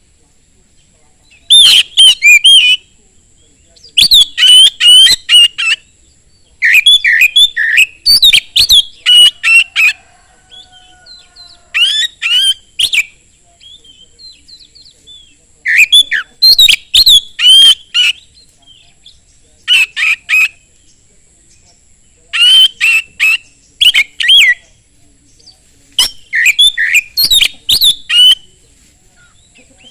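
Oriental magpie-robin (kacer) singing in full, loud song: about eight bursts of rapid, varied whistled phrases, each a second or two long, with short pauses between.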